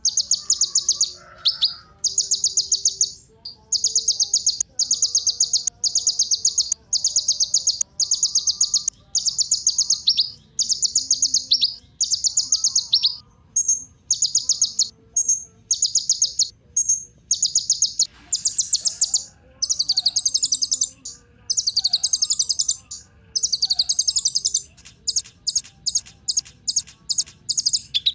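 Kolibri ninja, a sunbird, singing: high, rapid rattling trills of about a second each, repeated one after another. After about two-thirds of the way through the trills become more varied, and near the end they break into a string of quick short notes.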